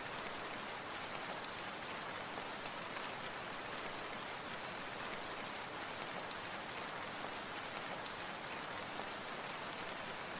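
Steady rain falling: an even hiss of many small drops striking a surface, without let-up.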